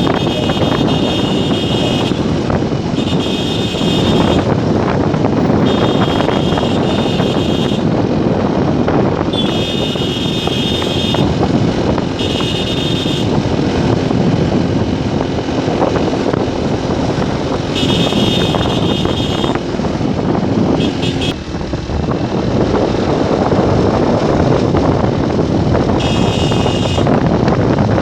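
Motorcycle riding on a road, with steady wind and road noise on the microphone, while a vehicle horn honks again and again, each honk lasting one to two seconds.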